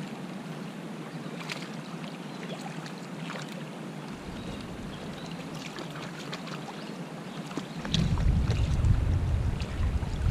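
Wind outdoors: a steady hiss with scattered small ticks, then about eight seconds in, gusts start buffeting the microphone with a loud low rumble.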